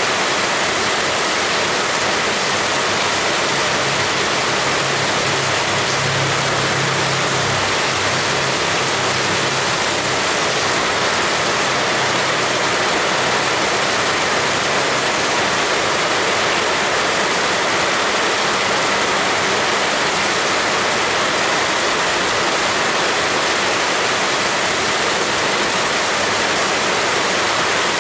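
Heavy rain falling in a dense, steady hiss. A faint low hum comes in about four seconds in and fades by about thirteen seconds.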